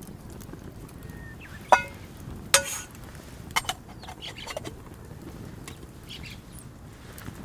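Metal cookware clinking over a campfire: two sharp ringing clinks, like a metal utensil striking a pan or pot, then a few lighter taps. Short chirps sound in the background over a steady low rumble.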